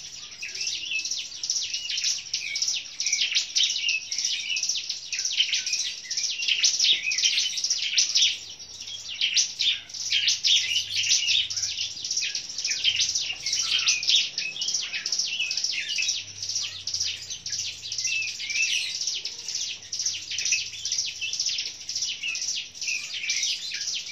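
Ciblek (prinia) song: a continuous stream of rapid, high, scratchy chirps and trills, easing briefly about eight seconds in.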